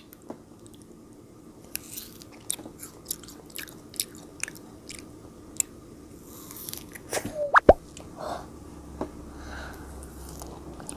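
Frozen grapes being bitten and chewed, with crisp, icy crunches and many short clicks. About seven and a half seconds in there is a brief rising squeak.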